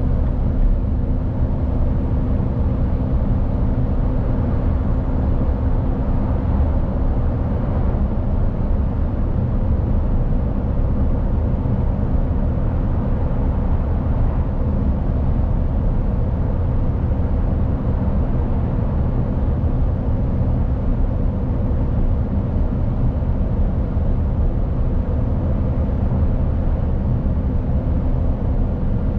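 Mercedes-Benz Actros truck's diesel engine running at a steady pace while driving, a constant low drone with tyre and road noise beneath it.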